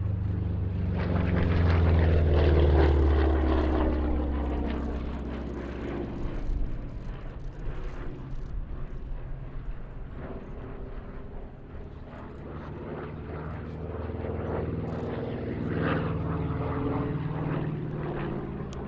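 Piston-engined WWII warbird flying past, its propeller drone swelling to its loudest about two to three seconds in and dropping in pitch as it passes. A second pass builds and peaks again near the end.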